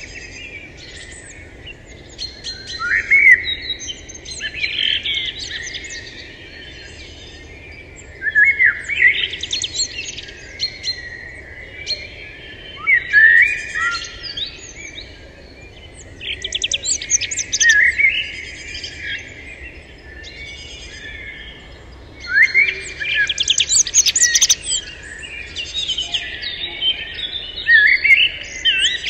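Songbirds singing outdoors: bursts of quick, high chirping song phrases every few seconds, with short quieter gaps between them.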